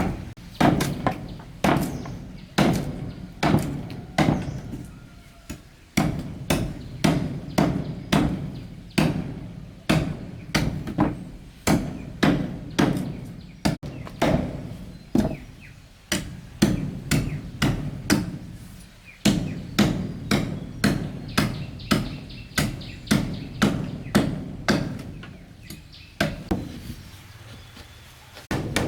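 Repeated hammer blows on wooden planks, in runs of about one to two strikes a second broken by brief pauses, each blow followed by a short low ringing from the wood.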